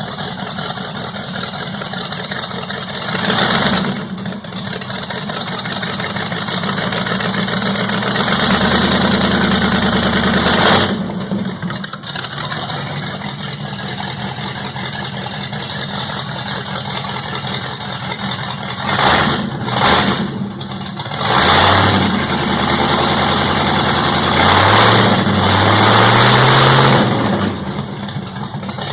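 Fox-body Mustang 302 (5.0 L) Ford V8 running with no exhaust beyond the manifolds, loud and raw, on its first start-up in a new build. It idles and is blipped several times: once a few seconds in, a longer rev soon after, two quick blips past the middle, and a longer run of rising revs near the end.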